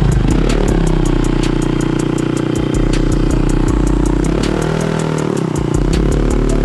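Honda Click 125i scooter's single-cylinder engine breathing through an aftermarket TP Moto slip-on exhaust, revved up and held at high revs, then dropping and rising again twice near the end.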